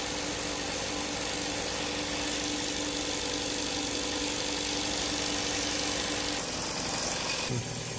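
Jensen 20-S model steam engine running fast and steady, its rapid exhaust beats blending into a continuous chuffing whir with a steady hum over it. The hum drops out about six and a half seconds in.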